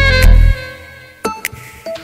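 Saxophone playing along with a swing backing track: a held note with bass ends about half a second in, then a short break with a few scattered drum hits.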